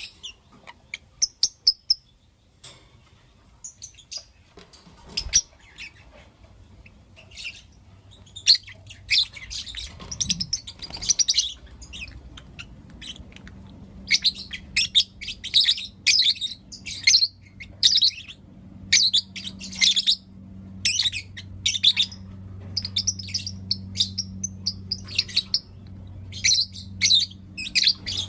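A pair of pet lovebirds chirping in quick, sharp clusters of high calls, sparse at first and busier from about eight seconds in. A steady low hum comes in under the calls about ten seconds in and grows toward the end.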